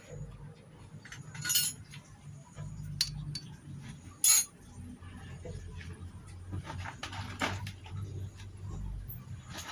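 Metal tools and engine parts clinking and knocking as they are handled and set down, a few separate sharp clinks, over a low steady hum.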